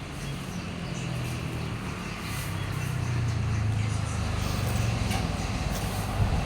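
A motor vehicle's engine running, a steady low hum that grows gradually louder, with a few faint clicks over it.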